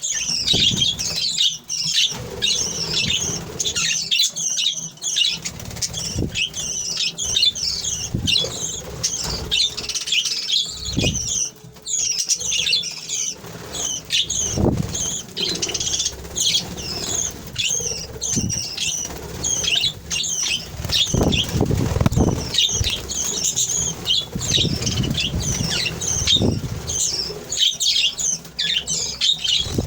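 A flock of budgerigars chirping and chattering without pause in rapid, high, overlapping calls. Now and then there are low thuds and flutters, loudest around the middle and again near the end.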